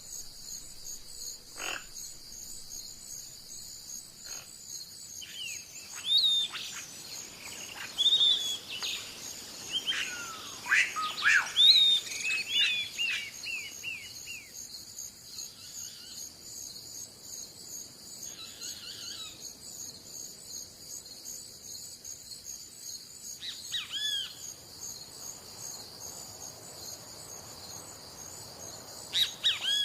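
Steady high-pitched chorus of crickets or other insects, with bursts of bird chirps and whistles, busiest from about six to fourteen seconds in and again briefly twice later.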